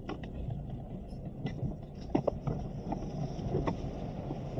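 Vehicle driving over a rough track: a steady low rumble with scattered knocks and rattles.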